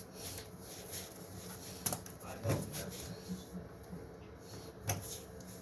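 Light handling noises with two sharp clicks, about two and five seconds in, over a low steady hum, from hand tools such as wire cutters working on electrical wire.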